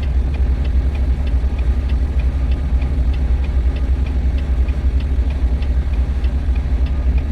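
Semi-truck diesel engine running with a deep, steady rumble heard inside the cab, with faint regular ticking about three times a second.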